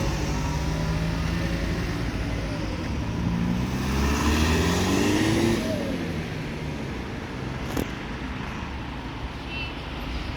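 Diesel bus engine running, its note rising as it accelerates away about four to five seconds in, then fading into the traffic noise.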